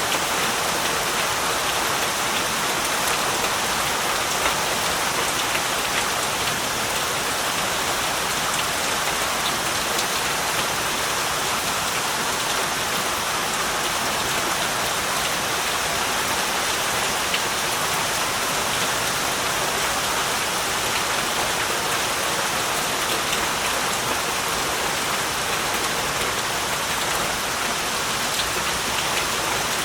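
Heavy rain falling steadily, an even hiss of many drops on surfaces with no letup.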